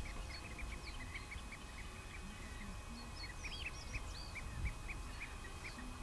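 Faint outdoor bird calls: many short, high chirps from several birds calling over one another, busiest midway, over a low background rumble.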